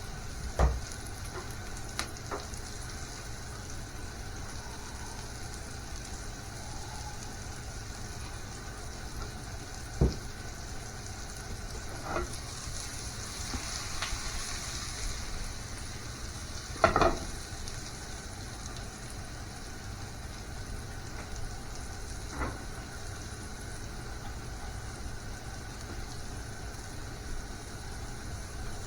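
Food sizzling steadily in a frying pan, broken by a few short knocks, the loudest about 17 seconds in.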